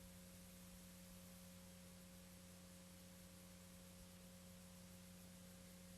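Near silence: faint steady hum and hiss from the VHS tape playback.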